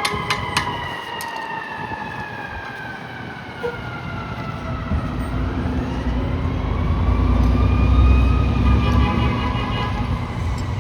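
CTA elevated L train passing, its electric traction motors whining: one whine falls slowly in pitch over about five seconds while another rises. A low rumble swells near the middle of the stretch.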